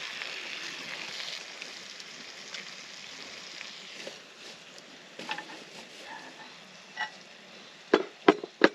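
Food sizzling in a pan as a steady hiss that softens after a second or so. Three sharp clicks come close together near the end.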